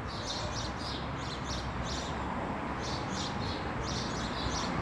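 Small birds chirping: a steady run of short, high chirps, several a second, over a low, steady background rumble.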